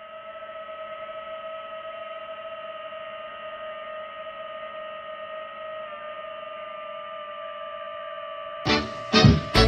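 A steady hum held at one pitch with overtones; plucked guitar music cuts in near the end.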